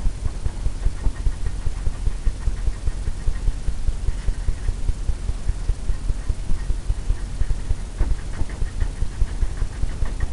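A blender brush tapping against stretched canvas, a steady run of dull low thumps about four a second, softening the wet oil paint into mist.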